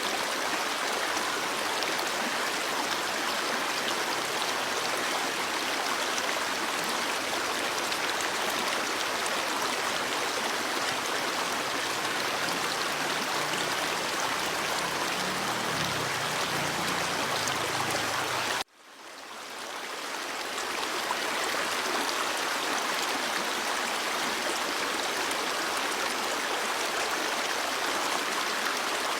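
Stream water flowing steadily. About 19 seconds in the sound cuts out for an instant and fades back in over a couple of seconds.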